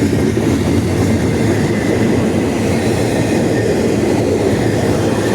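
Double-stack intermodal freight train cars rolling past, a loud, steady noise of wheels on rail.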